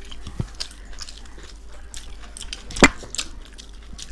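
Close-up sounds of someone biting and chewing chicken biryani, with quick wet clicks throughout. One sharp, much louder knock comes nearly three seconds in.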